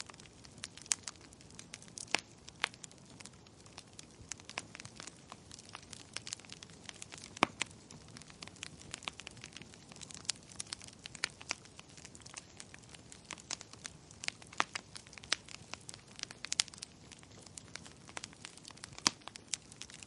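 Wood fire crackling: irregular sharp snaps and pops over a soft low hiss, with a few louder pops scattered through.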